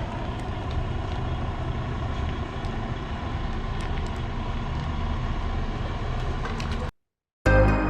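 Semi-truck diesel engine running with a steady low rumble and a few faint ticks. It cuts off abruptly about seven seconds in, and after half a second of silence music begins.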